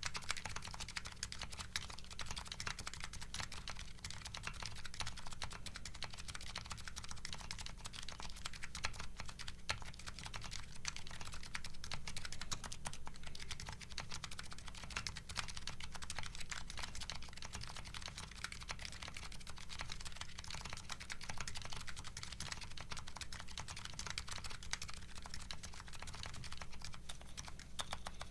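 Continuous typing on a Nuxros Kraze custom keyboard with MetaKeebs MetaPulse electro-capacitive switches and DCS Sleeper keycaps, picked up on a Shure SM57 microphone: a dense, unbroken stream of keystroke clicks.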